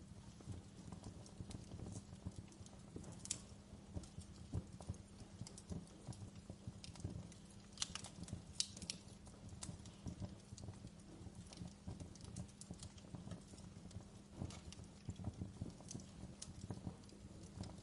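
Wood fire burning in a fireplace, crackling steadily with many small snaps and a few sharper pops, the loudest about eight to nine seconds in.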